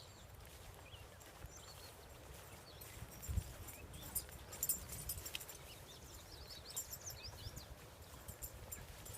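Footsteps of a person walking along a path, with a low thud at each step, while small birds chirp now and then.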